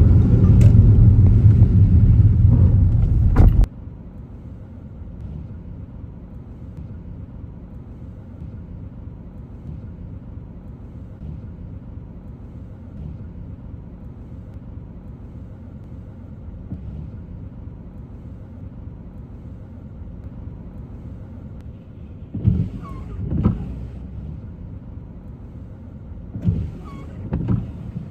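Car driving: a loud low rumble of road and tyre noise that cuts off suddenly a few seconds in, leaving a quiet steady low hum, with a few short thumps near the end.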